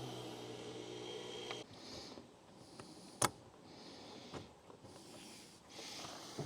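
Small steel hardware being handled and fitted onto a 5/16 bolt by feel: one sharp metallic click about three seconds in and a couple of lighter clicks, with faint breathing. A low steady hum stops about a second and a half in.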